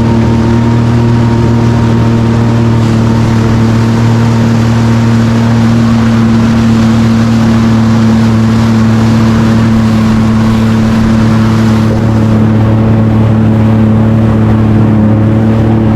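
Jet ski engine running at a steady speed, a constant hum with a rushing noise over it; the hiss eases slightly about twelve seconds in.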